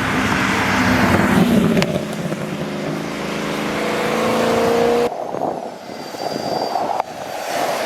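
A car engine accelerating hard, its pitch climbing steadily for a couple of seconds as it pulls away. The sound cuts off abruptly about five seconds in, leaving quieter street noise.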